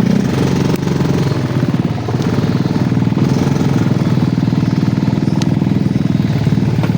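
Yamaha Jupiter MX motorcycle's single-cylinder four-stroke engine running at low, steady revs over rough ground, with a pulsing beat and a couple of sharp ticks, one about a second in and another near the end.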